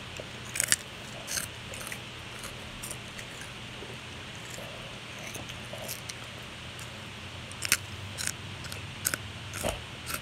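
Dry fruit-ring cereal being chewed: a few sharp crunches, a pair early on and a quicker run of them in the last few seconds, over a steady low hum.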